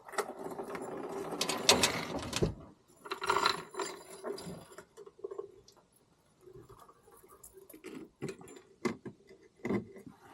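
Irregular clattering and knocking of things being handled, with sharp clicks, busiest in the first couple of seconds and again near the end.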